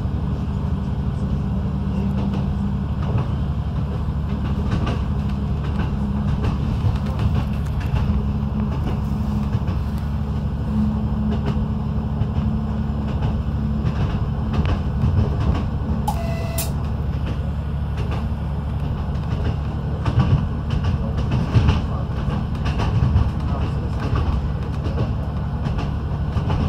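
A PESA 620M diesel multiple unit running along the line: a steady low engine-and-wheel rumble with scattered clicks from the rails. A short high tone sounds about sixteen seconds in.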